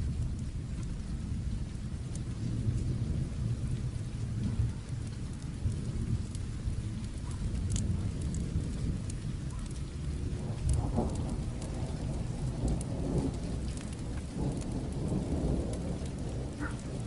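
Steady rain with a low rumble of distant thunder, swelling in the second half, and the occasional sharp snap of a crackling fire.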